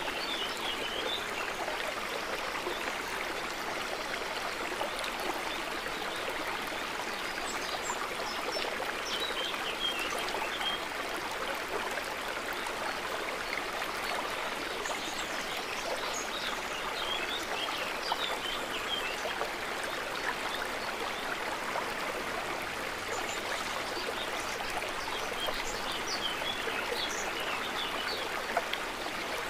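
Steady trickling and gurgling of water, an even wash with no pauses. Brief high chirps come in small clusters every several seconds over the water.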